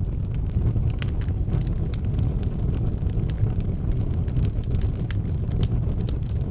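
Wood fire burning in an outdoor fireplace: a steady low rumble of the flames with sharp, irregular crackles and pops.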